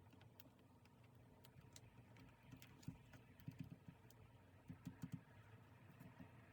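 Near silence broken by faint light taps and clicks, several in quick succession between about three and five seconds in.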